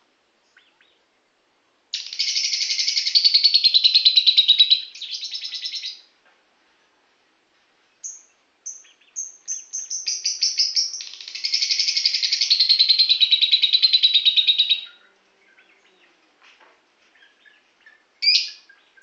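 A lovebird gives two long, rapid chattering trills. The first starts about two seconds in and lasts about four seconds; the second builds from short chirps about eight seconds in and runs until near fifteen seconds. A few brief chirps come near the end.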